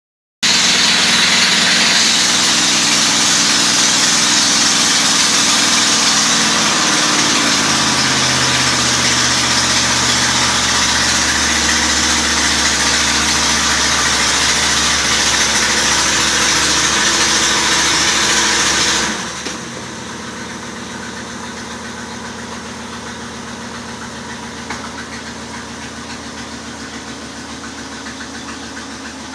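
A 1961 Ford Galaxie's 352 V8 idling steadily, heard from inside the car. A loud rushing hiss lies over it and cuts off suddenly about two-thirds of the way in, leaving the idle on its own.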